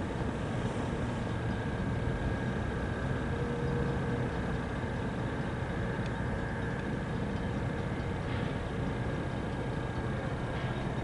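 Diesel-electric switching locomotive's engine running steadily at low throttle, a low drone with a few faint clicks.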